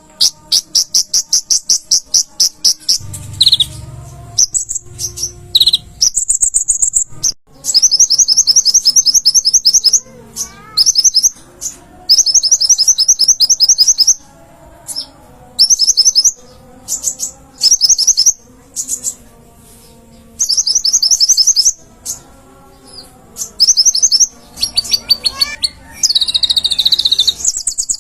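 Konin (kolibri ninja, a sunbird) singing loudly: fast, high-pitched rattling trills of rapidly repeated notes in bursts of one to two seconds, with short pauses and a few thinner sliding notes between them.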